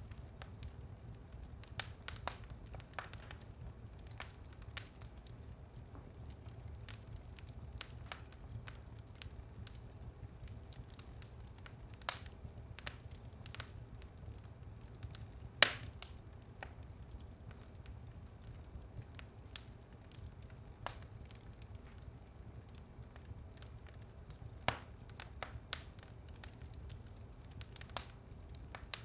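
Wood fire burning in a fireplace: a steady low rumble of flame with irregular sharp crackles and pops, a few of them louder.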